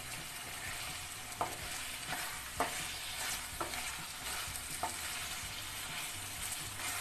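Mutton keema and potato pieces sizzling in a kadhai on high flame while being stirred and scraped with a wooden spatula. Four or five short knocks of the spatula against the pan come about a second apart.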